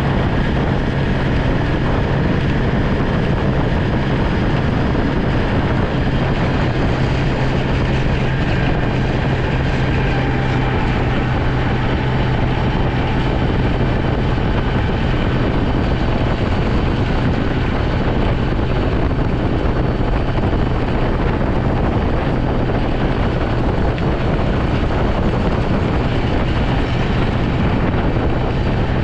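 A snow-plowing vehicle's engine running steadily: a constant low drone with a wash of noise over it.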